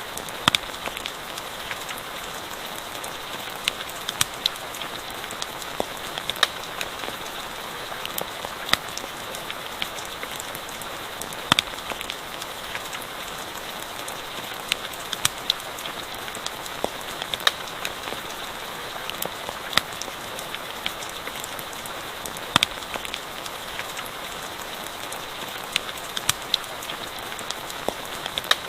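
Steady rain hissing, with irregular sharp pops and crackles from a campfire burning.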